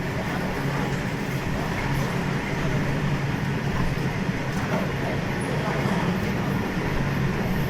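Freight train loaded with steel rings running steadily: a continuous rail rumble with a low hum.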